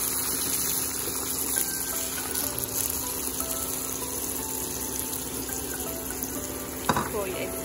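Salmon pieces frying in butter in a nonstick pan, a steady sizzle, as lemon juice is poured in over them. A sharp click about 7 seconds in.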